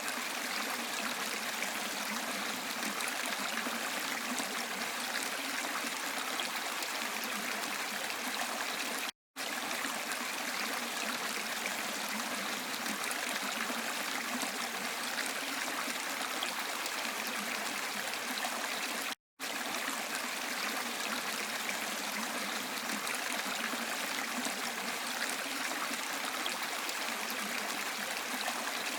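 Steady rushing and trickling water of a stream or small waterfall, a constant even wash of sound. It cuts out to silence for a split second twice, about every ten seconds, at the seams of a looped recording.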